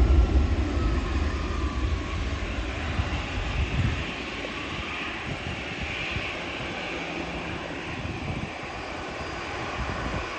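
Airliner passing overhead: a deep engine rumble with a faint falling whine, dying away over the first four seconds into a fainter, steady noise as the plane moves off.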